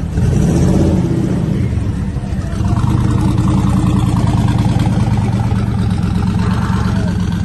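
Car engine revving and running, getting louder about two and a half seconds in.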